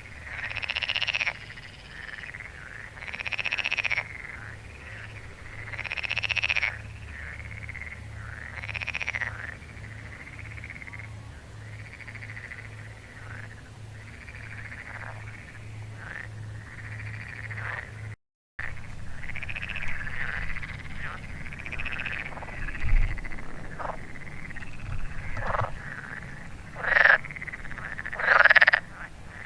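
A chorus of frogs croaking. There are several loud, drawn-out calls about a second long early in the stretch and sharper, shorter croaks near the end. The sound drops out briefly about two-thirds of the way through.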